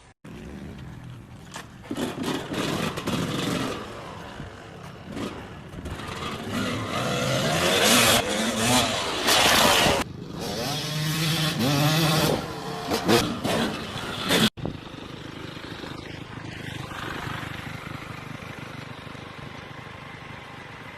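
Motorcycle engine revving, its pitch rising and falling, over wind noise; it cuts off suddenly about two thirds of the way through and gives way to a steadier, quieter rush of noise.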